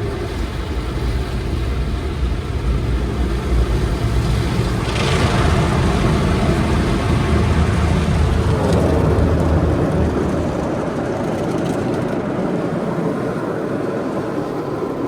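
Automatic car wash heard from inside the car: water jets and wash machinery working along the side of the car, a loud steady rushing din with a low rumble, growing hissier about five seconds in.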